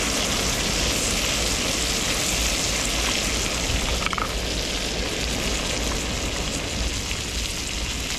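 Barramundi fillets frying skin-down with garlic in bubbling butter in a pan: a steady sizzle.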